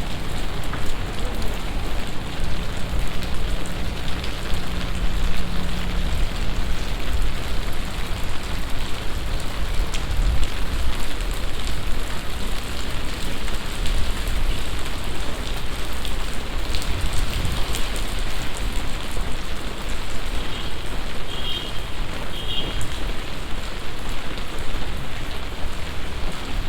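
Heavy summer downpour: a steady dense hiss of rain with many drops pattering and splashing on surfaces. A low hum sits under it early on, and a few short high beeps sound near the end.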